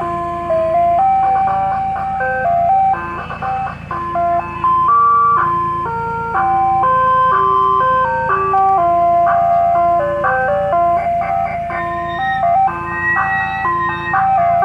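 Ice cream truck's chime loudspeaker playing its jingle: a simple tinkling melody of held electronic notes repeating, over the low steady hum of the idling truck.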